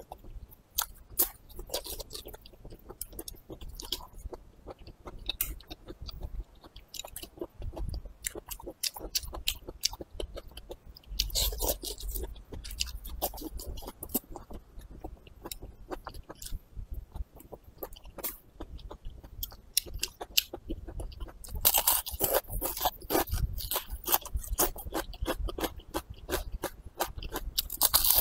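Close-miked eating: wet chewing with mouth clicks and bites of a long green pepper that crunch. The crunching is louder about eleven seconds in and again from about twenty-one seconds on.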